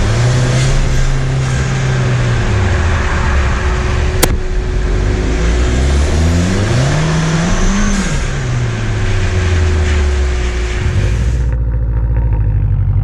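Ford Fiesta ST's turbocharged four-cylinder engine revving up and down under hard driving, over heavy road and wind noise. A sharp click comes about four seconds in. Near the end the engine settles to a steadier, duller note.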